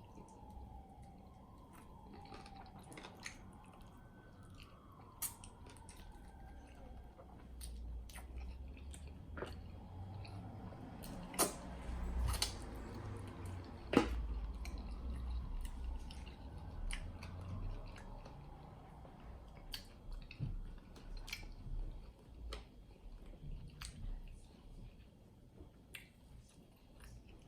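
A person chewing and biting into fried chicken wings coated in a thick, sticky garlic sauce, close to the microphone, with many sharp mouth clicks. The eating is busiest in the middle stretch.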